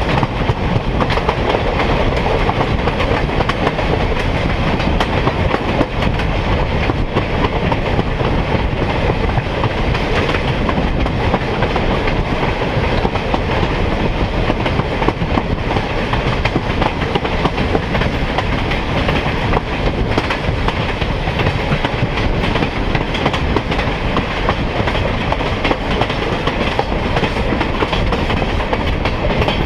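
Passenger train rolling along the track, heard from aboard a car: a steady rumble and rattle of wheels on rail, with faint clicks over the rail joints.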